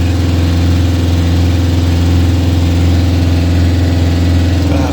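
The hired motorboat's engine running steadily, a loud low drone heard from on board; a higher steady tone joins just before the end.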